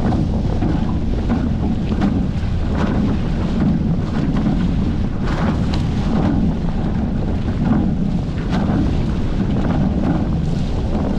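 Wind buffeting the microphone on a Hobie 14 catamaran under sail, with water rushing and slapping against the hull in irregular splashes.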